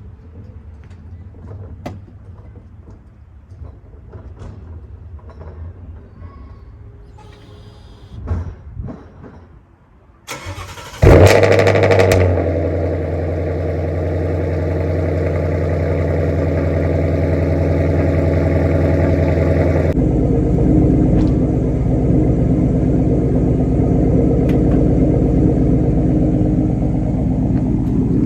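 Ford Mustang GT V8 cold start. After some faint clicks and a low hum, the starter cranks briefly about ten seconds in. The engine catches with a loud burst and settles into a steady fast idle, and the idle note changes about twenty seconds in.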